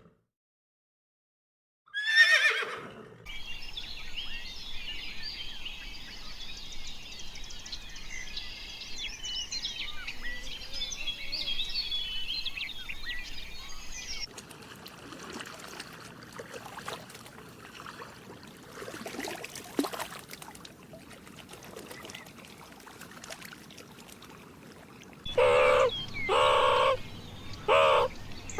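A run of animal calls: a horse whinny about two seconds in, then a long stretch of many birds chattering in high, dense calls, and near the end loud, repeated bird calls.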